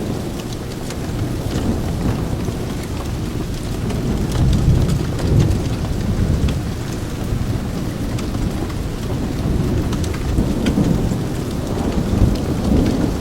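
Steady heavy rain, with a deep rumble that swells about four seconds in and again near the end, and scattered faint ticks.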